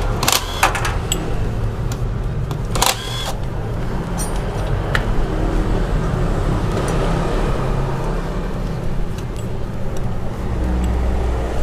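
Metal clicks and clinks of a T-handle socket wrench being worked on a very tight bolt on a Yamaha NMAX engine's water pump cover: a few sharp ones just after the start and another about three seconds in. Under them runs a steady low background rumble.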